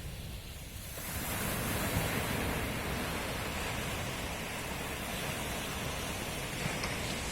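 Sea surf washing ashore in a steady rush of noise, softer at first and swelling about a second in.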